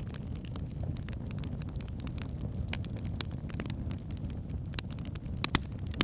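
Wood fire burning in a fireplace: a steady low rumble of the flames with irregular sharp crackles and pops from the logs, two louder pops near the end.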